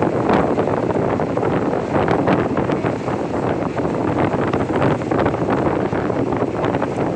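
Train pulling into a station: a steady rumbling noise with occasional brief clicks, mixed with wind on the microphone.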